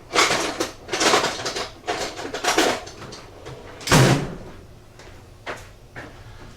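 Handling noises of a motorcycle's fuse box being worked on by hand: three or four scraping, rustling strokes, then a knock about four seconds in and a few faint taps.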